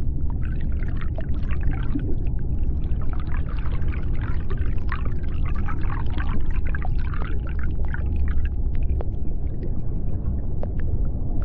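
Underwater ambience: a steady deep rumble with clusters of high squeaky chirps and scattered clicks, which thin out after about 8 seconds.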